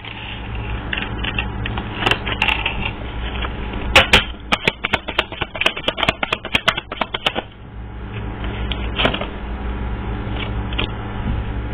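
Tarot cards being shuffled: a rapid run of crisp card clicks for about three and a half seconds in the middle, with a few single snaps of cards before and after.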